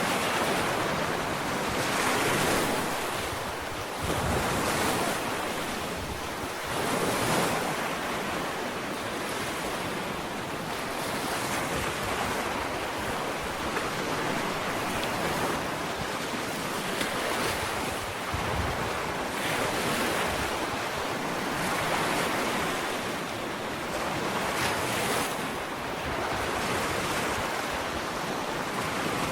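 Ocean waves washing onto a sandy beach, a steady surf wash that swells every few seconds as waves break and run up the shore.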